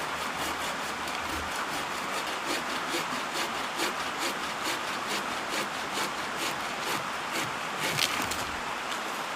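Homemade bucksaw cutting through wood with steady back-and-forth strokes, about two to three a second.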